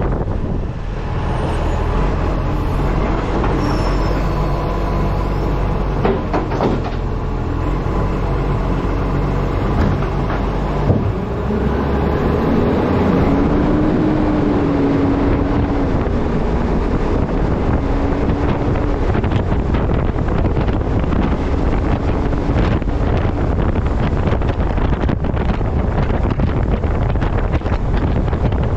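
Wind rushing over a camera mounted on the front of a moving Acco truck, over the low rumble of the truck on the road. A single sharp knock comes about eleven seconds in, and a faint wavering hum is heard for several seconds after it.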